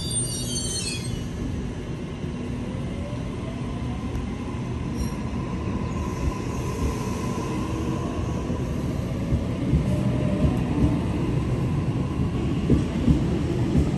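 A train running on the rails: a steady rumble throughout, with a brief high squeal of wheels in the first second and a faint whining tone through the middle. A few louder clunks come near the end.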